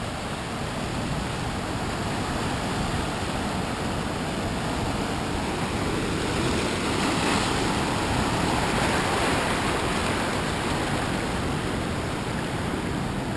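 Ocean waves breaking and surging on the shore at high tide in a large swell, a steady rush of surf that swells louder in the middle as a bigger wave comes in.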